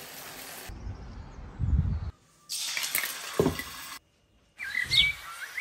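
Short ambient clips cut together, with a dead-silent gap at each cut: a steady hiss first, then a low rumble, which is the loudest part, and small birds chirping near the end.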